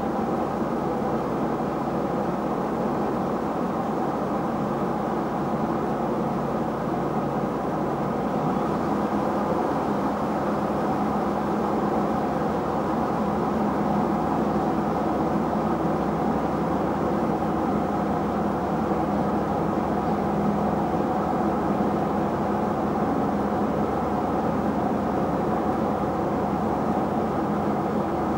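Diesel engine of farm machinery running steadily; its low note shifts slightly about eight seconds in.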